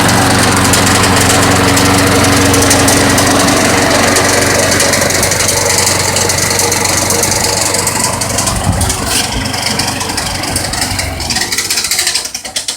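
Lawn mower's small engine running loud with a knocking rattle, which the owner takes for a worn rod and a loose piston after running on long-overdue oil thinned to almost water. The engine slows and stops near the end.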